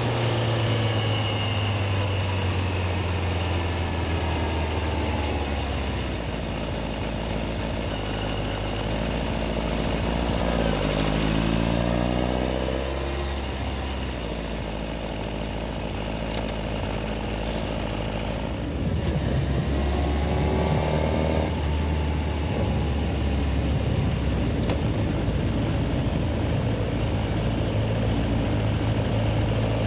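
Yamaha XJR1300's air-cooled inline-four engine running at low revs in city riding, its pitch rising twice as it accelerates, first around the middle and again about two-thirds of the way in, then settling back to a steady low note.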